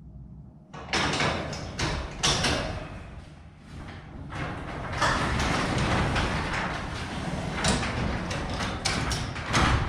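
Garage door moving along its tracks on newly fitted springs, its rollers and panels rattling: a test run after the spring replacement. The rattle starts about a second in, eases briefly near four seconds, then carries on.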